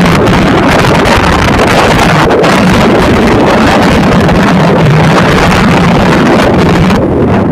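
Loud, steady wind buffeting the microphone over a droning engine hum, as when recording from a moving vehicle. The high hiss drops away near the end.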